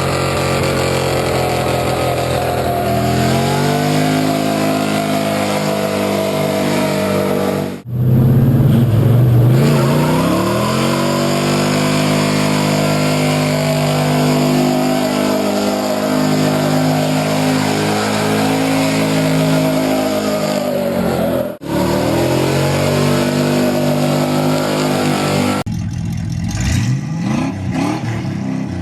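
Pickup truck engine held at high revs, its pitch sagging and climbing again in long pulls, across several abruptly cut clips. Near the end a different engine revs in short rising bursts.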